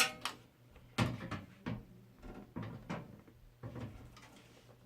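Irregular light knocks and clatter of a motherboard being handled and tried into position in a PC case.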